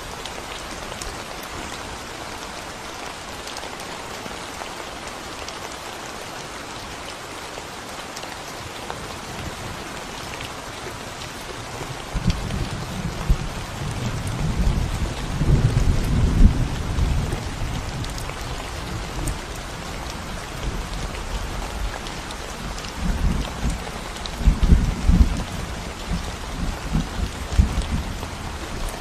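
Steady rain falling on a concrete road. About twelve seconds in, heavy low rumbling sets in and swells twice, loudest near the middle and again later on.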